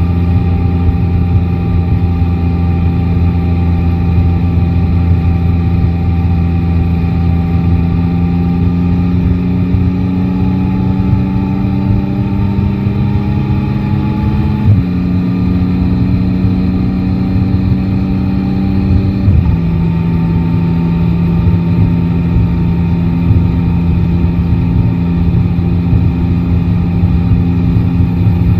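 Yamaha Tracer 9 GT's 890 cc inline three-cylinder engine running under way, with road and wind rumble. The engine note climbs slowly, then steps down in pitch about halfway through and again a few seconds later, and holds steady after that.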